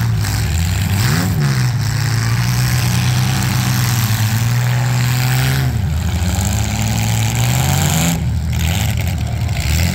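Demolition-derby compact-car engines running, one revving up about a second in, holding its revs, dropping back to idle around the middle and revving again near the end.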